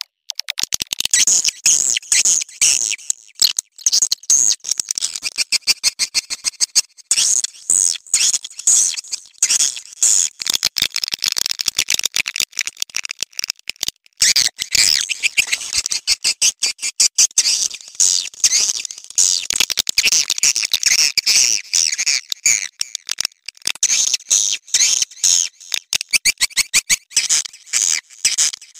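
Swiftlets giving their mating call: dense, rapid chattering chirps and clicks in long runs, broken by a few brief pauses.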